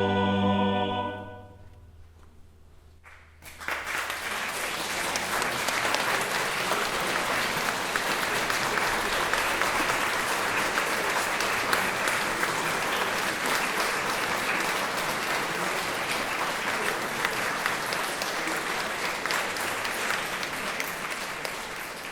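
The music's held final chord dies away in the first second or so. After a short pause an audience breaks into steady applause, which begins to thin out near the end.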